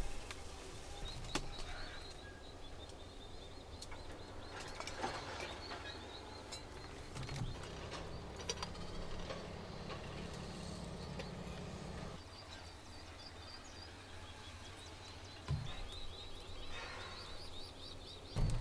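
Birds chirping repeatedly over a low outdoor background, with scattered small clicks and knocks.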